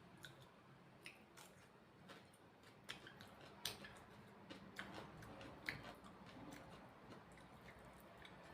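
Faint mouth sounds of someone eating spicy chicken feet: scattered soft clicks and smacks of chewing, about a dozen over several seconds.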